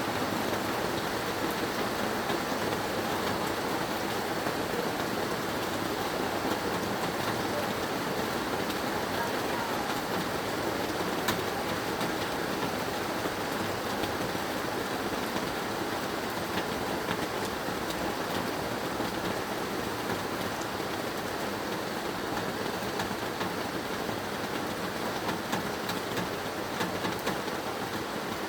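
Heavy rain falling steadily, an even hiss with scattered drop ticks and one sharper tick about 11 seconds in.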